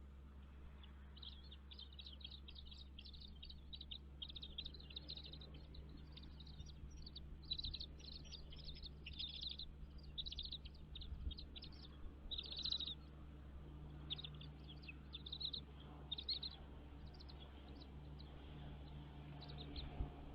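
Birds chirping in fast runs of short, high-pitched notes that start about a second in and thin out near the end, over a faint steady low hum.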